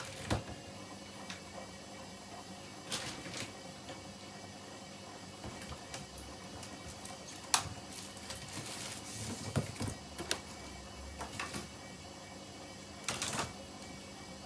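Hoover H-Wash 300 washing machine running: a steady motor hum with occasional sharp clicks and short swishes, the loudest click about seven and a half seconds in.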